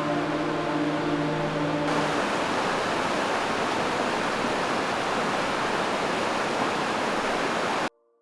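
Fast-flowing river water rushing through a rocky gorge, a steady even rush, with background music dying away about two seconds in. The water sound cuts off abruptly near the end.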